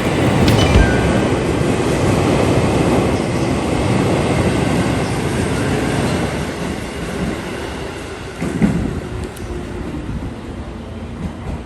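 Train running on the rails, with a few sharp clicks from the wheels near the start; its rumble is loud at first and fades steadily as it moves away.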